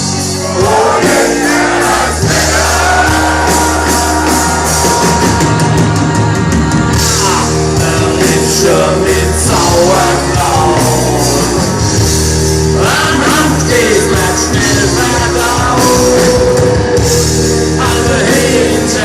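Live rock band playing with a singer over sustained bass and guitar chords.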